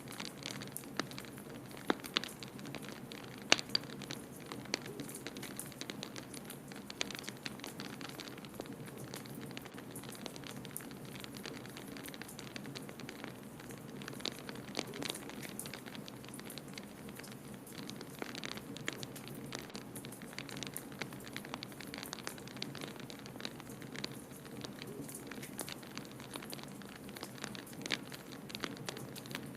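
Wood fire crackling in a fireplace: irregular sharp pops and snaps over a steady low rush, with a few louder pops in the first few seconds.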